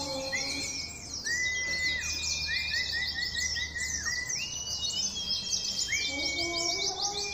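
White-eyes (pleci) singing hard, the 'gacor' song prized by bird-keepers. Dense, very rapid high twittering runs throughout, with several long held whistle notes between them. A few lower steady notes sound near the start and again near the end.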